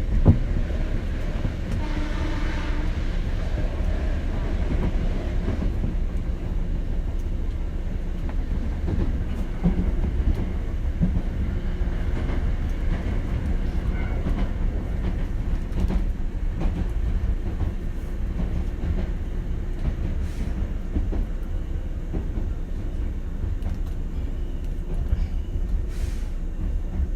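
Hankyu 7000 series electric train running on the line, heard from inside a passenger car: a steady rumble of wheels on the rails with clicks over the rail joints.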